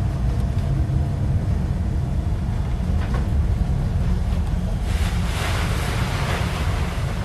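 Fishing vessel at sea in a storm: a steady low rumble of engine and wind on the microphone, with a wash of water noise from a breaking wave or spray for about two seconds, beginning about five seconds in.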